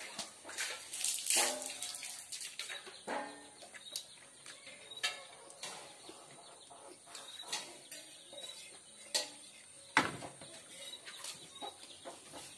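Mouth sounds of eating by hand: chewing and lip smacks, with sharp clicks scattered through and a loud one about ten seconds in.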